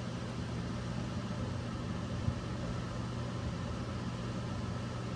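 A steady low mechanical hum over an even hiss, with a single light knock about two seconds in.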